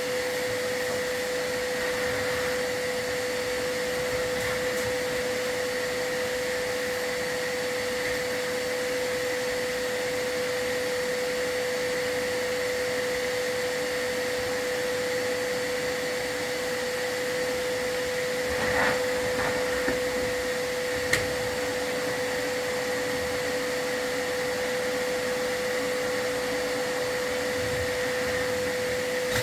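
Vacuum motor running steadily with a constant whine, as chimney sweeps use to pull soot from the firebox. A few short knocks come about two-thirds of the way in.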